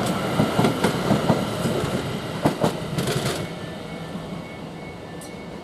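Greater Anglia Class 720 electric multiple unit running past, its wheels clattering over the rail joints. The clatter stops about three and a half seconds in, and the train fades as it moves away.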